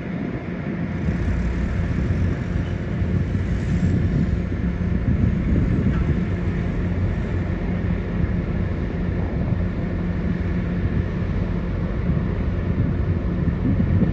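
Diesel engine of heavy earthmoving machinery running steadily under load, a deep, constant hum with mechanical noise over it.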